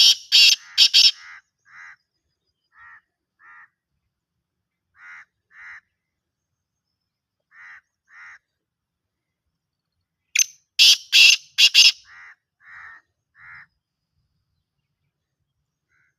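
Black francolin calling: a loud, harsh, rasping phrase of several quick notes at the start and again about ten seconds later, each followed by softer paired notes repeated every second or two.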